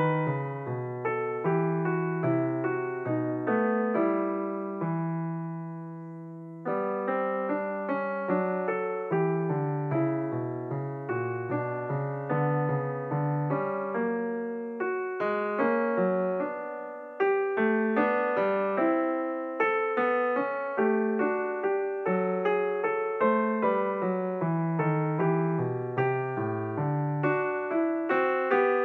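Piano music: a steady run of struck notes and chords, with one chord left to ring and fade about five seconds in before the playing picks up again.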